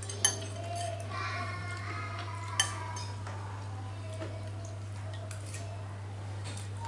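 Eating utensils clinking against a bowl during a meal: two sharp clinks, one just after the start and one about two and a half seconds in, over a steady low hum.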